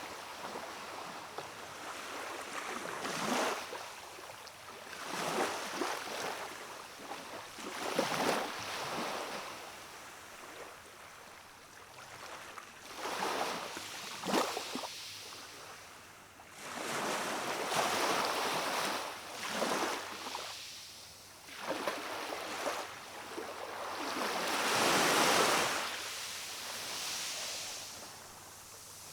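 Small waves of a calm sea washing and splashing against a rocky shore, in irregular surges every few seconds, the biggest one swelling and falling away near the end.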